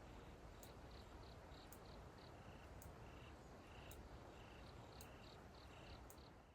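Crickets chirping faintly: two insects calling together, one lower and one higher-pitched, each repeating short even chirps a few times a second over a quiet steady background.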